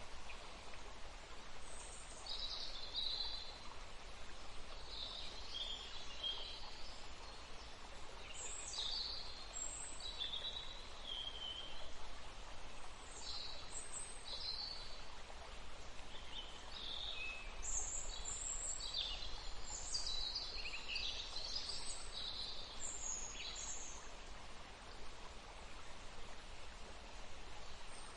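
Water flowing steadily, with small birds chirping on and off over it; the calls come thicker in the second half.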